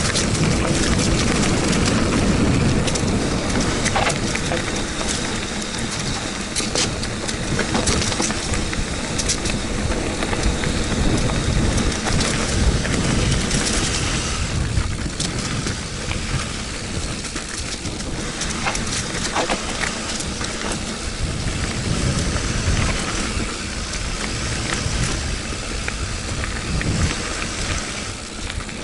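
Wind rushing over the microphone and a mountain bike's tyres rumbling over a rocky trail, with scattered sharp clicks and rattles from the bike.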